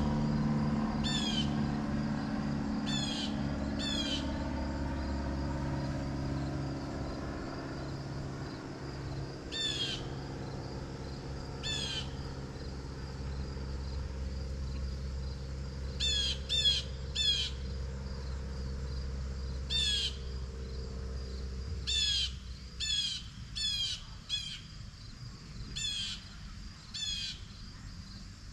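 A bird calling over and over: short, sharp, downward-slurred calls, some alone and some in quick runs of two to four. Under them a low rumble fades away about two-thirds of the way through.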